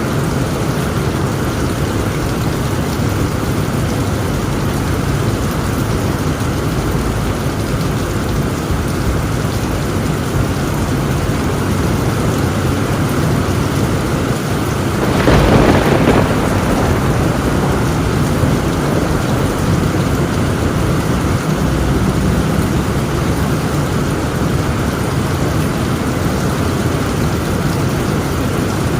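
Heavy rain pouring steadily on a tin roof, with one sharp clap of thunder about halfway through.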